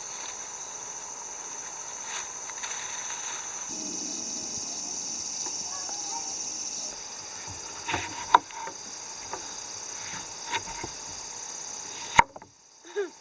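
A steady high-pitched chorus of summer insects, swelling for a few seconds in the middle, with a few sharp knocks about eight and twelve seconds in.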